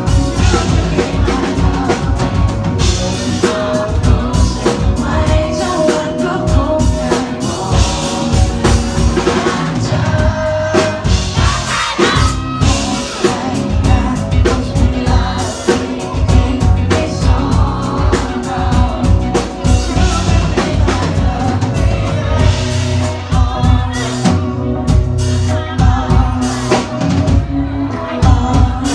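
Live pop band performance: a singer's voice over a drum kit, bass and other instruments.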